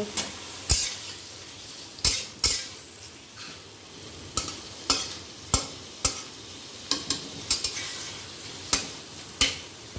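Paneer cubes frying in melted butter, a steady sizzle, while a spatula stirs them and knocks against the pan again and again at an uneven pace.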